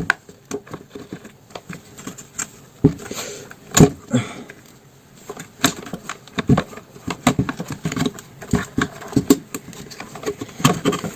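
Irregular clicks, taps and knocks of hand tools and chainsaw parts being handled as the saw's cover and parts are unscrewed and taken apart, with a few sharper knocks among them.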